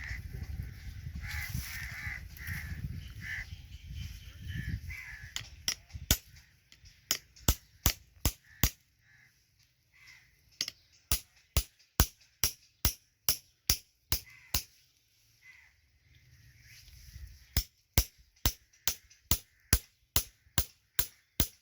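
Slow-running single-cylinder Petter diesel engine firing with sharp exhaust pops, about three a second, in runs broken by short pauses, starting about six seconds in. Before that there is a low rumble with a few calls.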